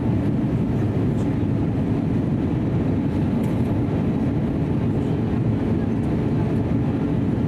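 Steady cabin noise of an Airbus A320neo in flight: a constant low rush of airflow and engine noise from its CFM LEAP-1A turbofans.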